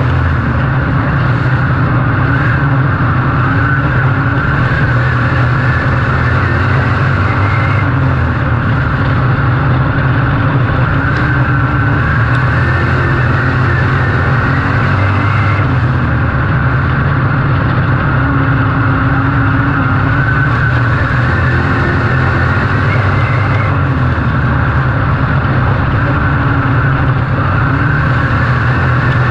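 IMCA Modified dirt-track race car's V8 engine running hard and loud under race load, holding a steady drone with small rises and falls in pitch.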